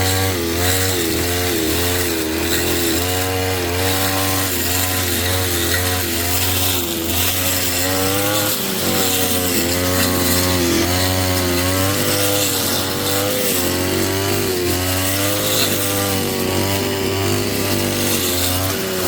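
Brush cutter engine running at high revs, its pitch dipping and rising over and over as it cuts through weeds.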